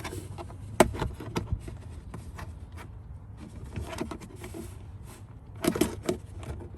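Small clicks and scrapes of a screw being undone from a car's interior trim panel, over a low steady hum. There is a sharp click about a second in and a cluster of clicks near the end.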